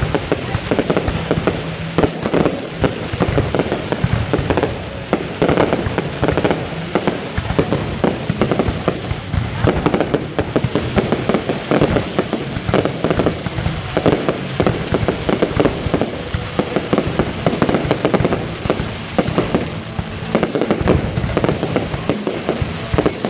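Fireworks display: a dense, unbroken barrage of bangs and crackles, many bursts a second.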